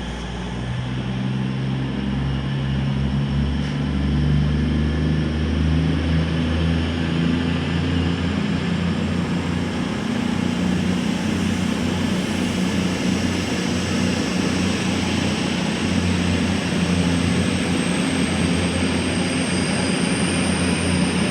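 Diesel train engine running close by with a steady low drone, growing louder over the first few seconds and then holding level.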